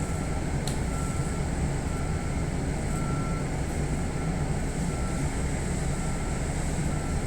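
Steady low hum of a halted electric train's onboard equipment running while it waits, with a faint high whine and short faint beeps at one pitch coming and going every second or so.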